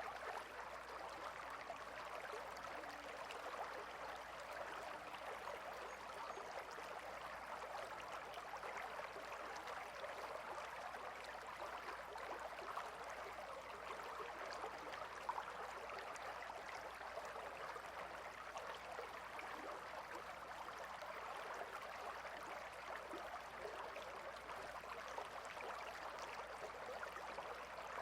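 Gentle river flowing steadily, a soft continuous babble of water.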